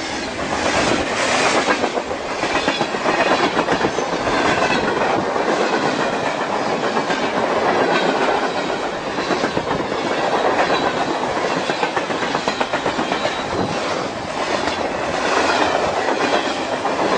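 Freight train of container cars and tank cars rolling past close by, its wheels clattering steadily over the rail joints.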